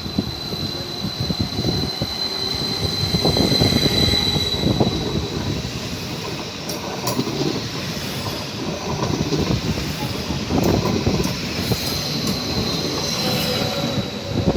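Train moving through a station, its wheels squealing in a high steady tone for the first few seconds and again faintly near the end, over the uneven rumble of the running gear.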